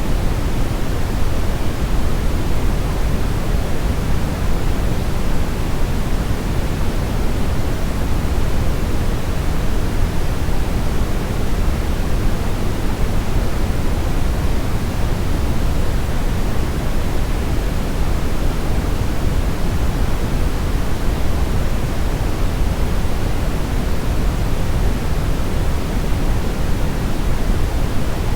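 Steady brown noise: a deep, even hiss without any tones, heaviest in the bass and fading toward the treble.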